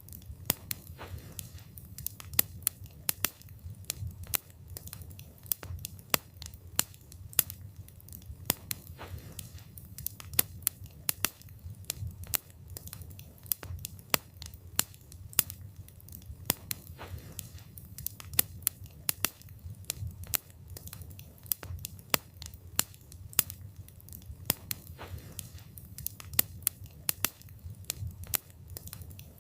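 Wood fire burning: a low, steady rumble of flames with frequent sharp crackles and pops from the burning wood, coming irregularly several times a second.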